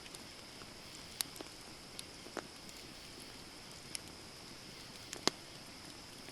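Wood campfire burning, with a handful of sharp crackling pops scattered over a steady high hiss; the loudest pop comes about five seconds in.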